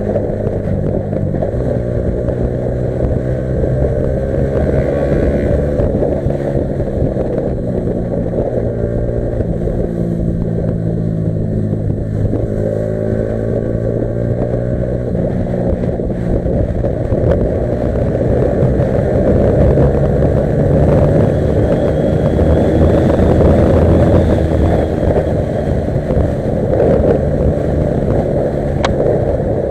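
Modified Yamaha R15 V3's single-cylinder engine running under way. Its pitch climbs and drops again several times as the bike accelerates and shifts through the gears.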